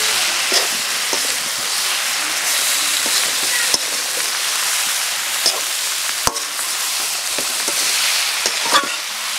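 Okra and eel (baim) fish pieces sizzling in hot oil in a metal karahi, stirred with a metal spatula that knocks and scrapes against the pan a handful of times.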